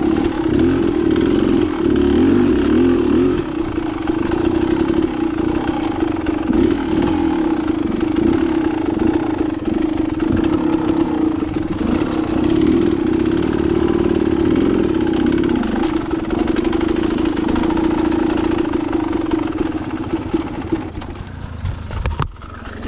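Dirt bike engine running as it is ridden along a rough single-track trail, at a fairly steady pitch with rattling and wind noise, easing off near the end.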